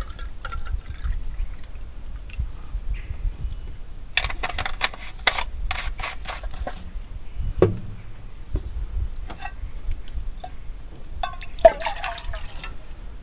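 Water being poured and sloshing into a pot to make coffee, with several sharp clicks and knocks of cookware being handled partway through.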